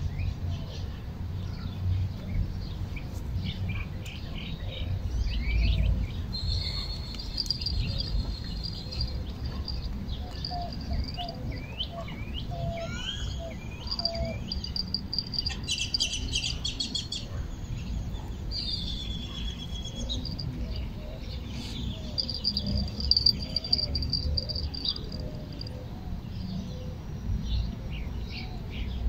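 Several birds chirping and singing, with repeated short calls and a few longer high trills held for a second or two, over a low uneven rumble.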